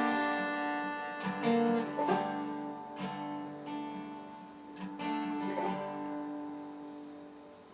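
Acoustic guitar playing a few last plucked notes and letting them ring, fading away as the song ends.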